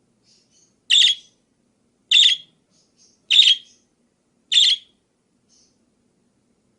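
Parakeet calling: four loud, short, harsh calls evenly spaced about a second apart, with faint high chirps between them.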